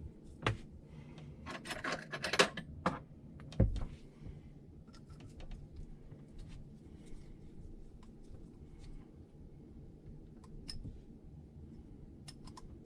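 Small metal parts and hand tools clicking and tapping while an RC shock piston is mounted and secured on its shaft: a quick run of sharp clicks in the first few seconds, one duller knock just after, then only faint occasional ticks.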